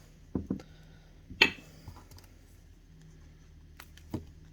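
A few light clicks and taps of cardstock pieces and crafting tools being handled on a desk, the loudest about a second and a half in, over a low steady hum.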